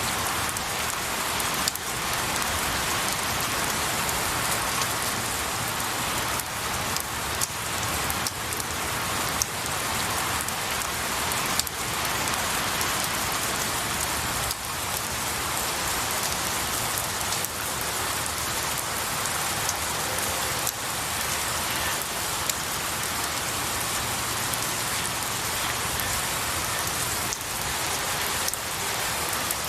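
Steady rain falling on pine needles and trees, an even hiss with scattered sharper drop ticks throughout.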